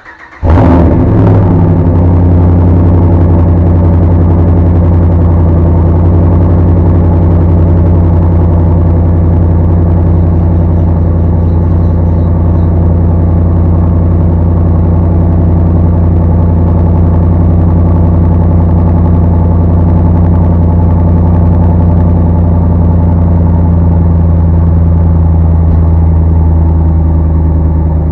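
2014 Ram 1500's 5.7 L HEMI V8 firing on a cold start about half a second in, then idling steadily and loudly through an exhaust with the resonator deleted and a tubular aftermarket muffler. The idle eases slightly near the end.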